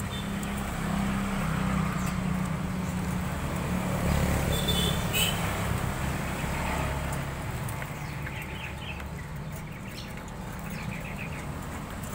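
A small bird gives a few short high chirps, then a quick run of rapid notes, over a steady low rumble.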